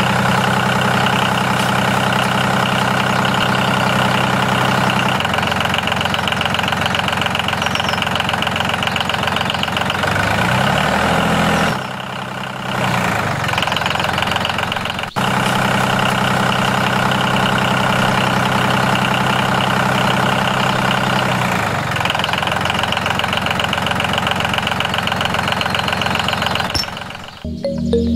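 An engine running steadily at idle, its low drone changing pitch in steps and sliding briefly about eleven seconds in; the sound breaks off sharply about fifteen seconds in and the same run of engine sound starts again.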